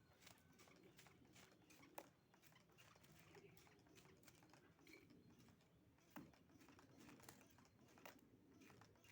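Near silence with faint, irregular clicks and taps from a small pet bird moving about and pecking.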